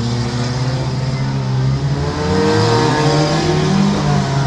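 Compact demolition derby car engines running, one of them revving up and easing back down about two seconds in.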